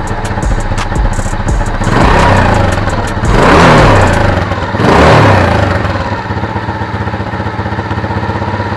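Single-cylinder engine of a Chinese-engined Cub-style motorcycle idling through its stock muffler with the catalyst removed, revved three times, the middle rev the longest, then settling back to idle.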